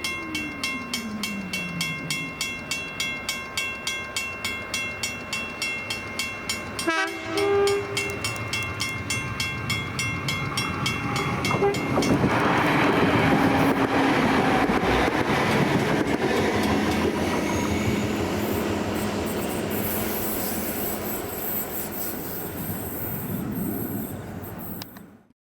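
Western Cullen Hayes 333 mechanical level-crossing bell striking about twice a second with a steady ringing tone, and a train horn sounding briefly about seven seconds in. The bell stops about twelve seconds in, and the train passes over the crossing with a loud rumble of wheels on rail that slowly fades.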